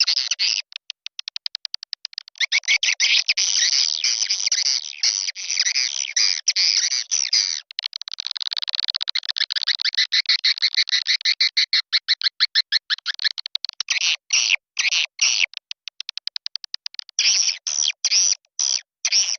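Swiftlet lure call: a recording of swiftlets' dense twittering chirps and rapid clicks, played to call swiftlets in. It runs in long busy stretches, breaking into short separate bursts with gaps over the last few seconds.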